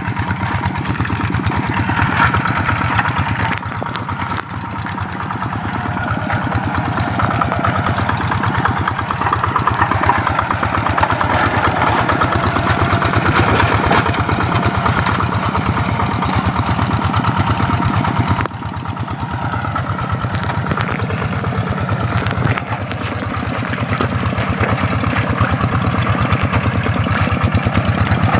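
Single-cylinder diesel engine of a two-wheel paddy-field tractor running steadily while working a wet rice field. Its level drops briefly about four seconds in, and again for a few seconds after the two-thirds mark, before picking back up.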